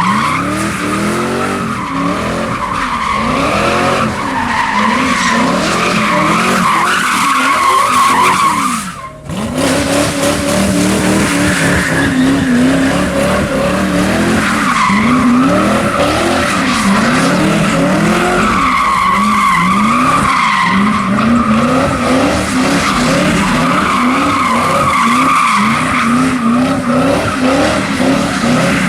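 A car doing donuts: its engine is revved up and down over and over while the tyres squeal without letup. The sound breaks off briefly about nine seconds in, then carries on the same way.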